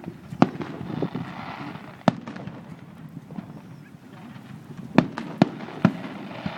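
Fireworks bursting in sharp, separate bangs: one about half a second in, another at about two seconds, then three in quick succession near the end.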